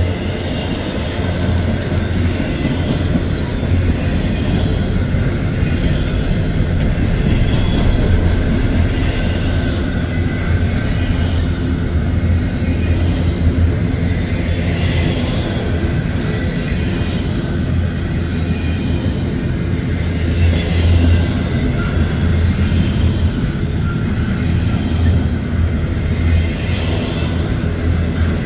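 Intermodal freight train of double-stack container cars rolling past, a steady loud noise of steel wheels on rail with repeated short clacks from the cars.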